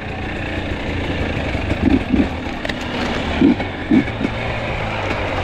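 Two-stroke enduro dirt bike engine running steadily at low speed, with a few short louder bursts.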